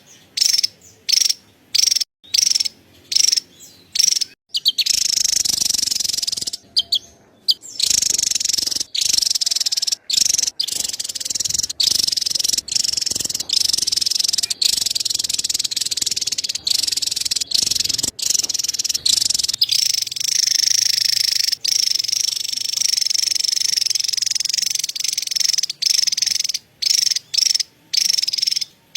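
Javan tesia giving a dense, rapid, high-pitched chattering call (cerecet) that keeps on almost without pause, broken by abrupt short silent gaps, most of them in the first few seconds and near the end.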